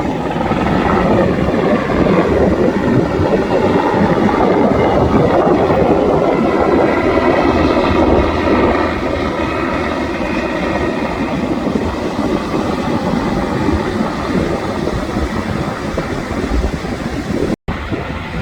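Black Hawk helicopter flying past, a steady loud rumble that is loudest in the first half and eases off after that, mixed with wind on the microphone. The sound cuts out for a moment near the end.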